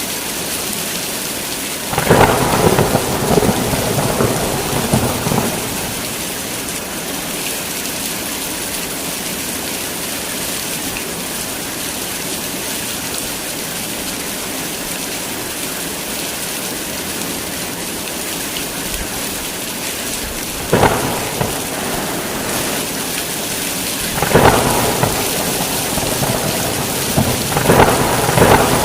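Heavy rain falling steadily, with thunder rolling over it: a long peal about two seconds in, then three more rolls in the last eight seconds.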